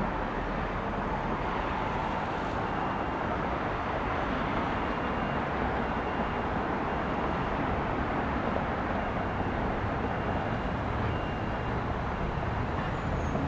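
Steady jet engine noise from an arriving Boeing 757-200 airliner, with a faint beeping that repeats about once a second.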